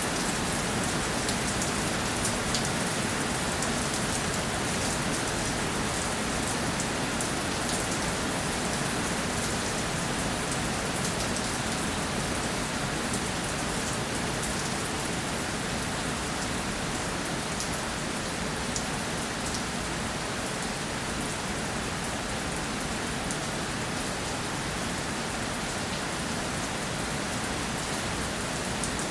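Steady rainfall, a dense even hiss of rain falling on surfaces with fine individual drop ticks through it.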